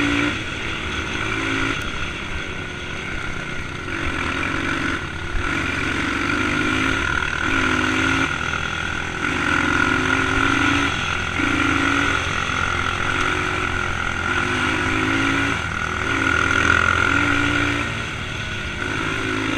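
Dirt bike engine running under load on a trail ride, its pitch repeatedly climbing and dropping back every second or two as the throttle is worked and gears are changed, with a steady higher whine over it.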